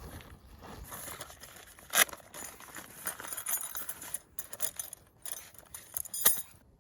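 Handling noises: rustling with sharp metallic clinks and jingling. The loudest clink comes about two seconds in and another just before the sound cuts off suddenly.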